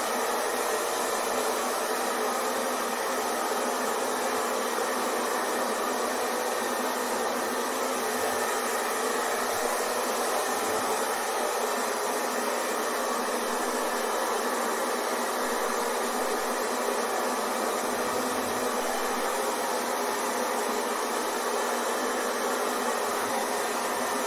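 Hair dryer running steadily: a constant airy whoosh with a faint motor whine, unchanging throughout.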